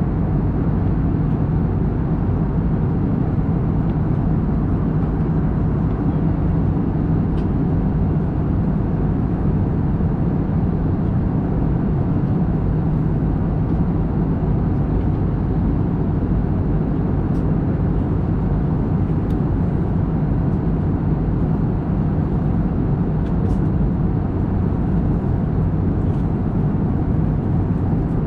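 Steady in-flight cabin drone of an Airbus A321neo: engine and airflow noise with a low, even hum, and a few faint ticks.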